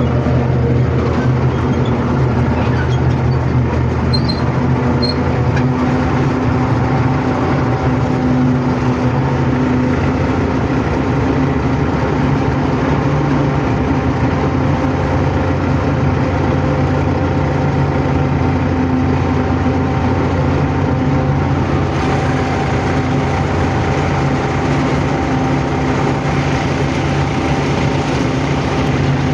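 Diesel locomotive's engine running steadily as the train travels along the line, heard from on board. It is loud enough to drown out a voice.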